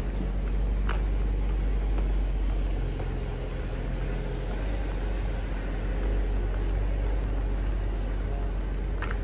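Silver BMW 5 Series sedan's engine running at a crawl close by, a steady low hum, with two short clicks about a second in and near the end.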